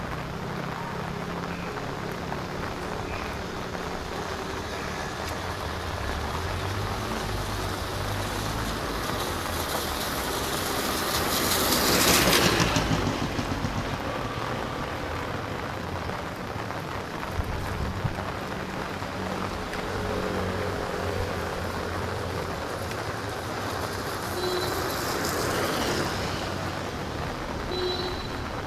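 Road vehicle passing close, its sound swelling and fading about twelve seconds in, over a steady background of traffic noise; a second, fainter vehicle passes near the end.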